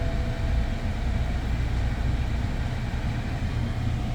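BMW TwinPower Turbo petrol engine idling, heard from inside the cabin as a steady low rumble. The idle is the one described as sputtering, which the driver doesn't like. A two-tone electronic chime from the car fades out about half a second in.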